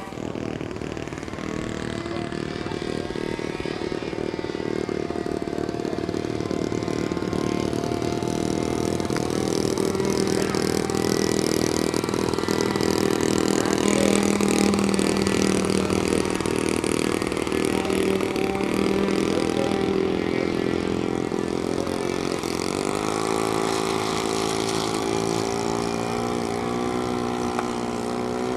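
Model airplane engine running steadily, louder towards the middle; in the last few seconds its pitch climbs.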